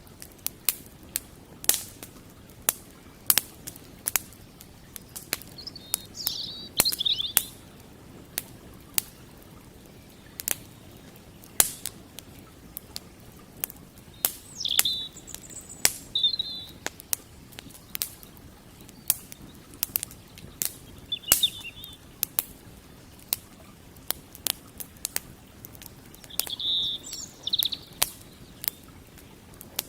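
Campfire crackling, with sharp irregular pops and snaps of burning wood throughout. A small bird chirps in short bursts four or five times.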